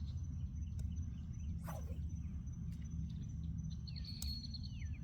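Steady low rumble with a bird calling near the end, a run of falling whistled notes.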